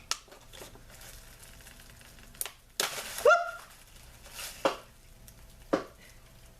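Plastic blister packaging being peeled off its cardboard backing card and handled, with irregular crackles and crinkles; a brief vocal 'oh' sound a little after the middle.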